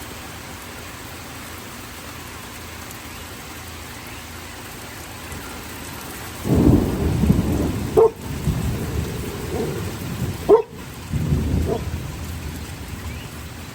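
Steady rain falling, then about halfway through a loud, low rumble of thunder that rolls on for several seconds. A dog barks twice over the thunder.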